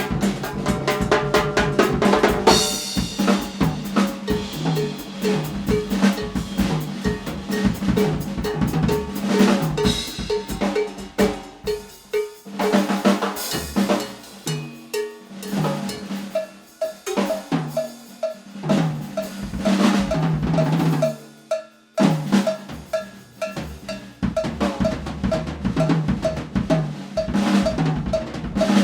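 Drum kit played in a busy groove, with snare, bass drum, rimshots and rolls, over another instrument repeating short pitched notes. The playing stops for a moment about three quarters of the way through and then comes back in.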